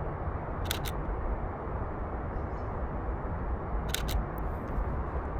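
Canon EOS RP camera shutter firing twice, about three seconds apart; each shot is a quick double click. A steady low rumble runs underneath.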